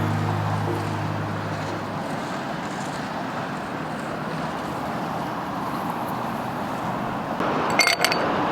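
A music track's last low note fades out over the first two seconds, leaving a steady rushing outdoor background noise. Near the end come a few light clinks.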